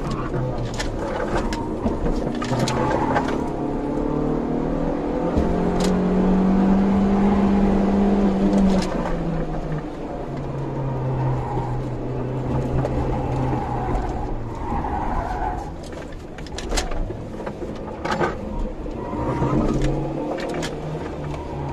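Honda CRX's four-cylinder engine under racing load, heard from inside the car. The engine note climbs for a few seconds, drops sharply about nine seconds in, and sags around sixteen seconds as the car slows, then rises again near the end. Occasional sharp clicks are heard throughout.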